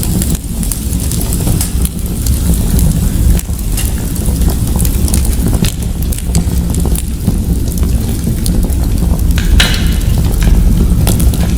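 Wood fire crackling in a fireplace: many scattered small pops over a steady low rumble, with one sharper crack a little after nine seconds in.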